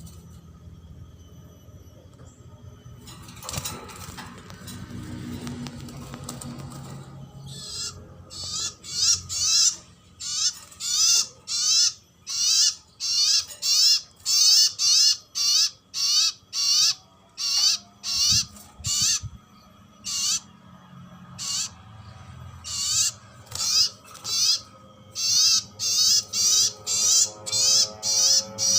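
A bird calling over and over in short, high, rapidly warbling phrases, about one a second, starting several seconds in.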